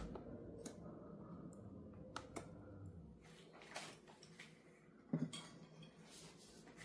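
Faint scattered clicks and light clinks of small hard objects being handled, with one louder knock about five seconds in.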